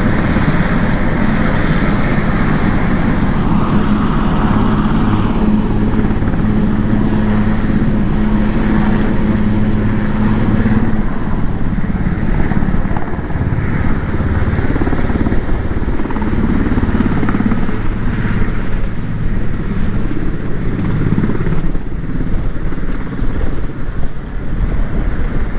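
Motorcycle engine running at a steady pitch under a hiss; the hiss above thins out a little under halfway through.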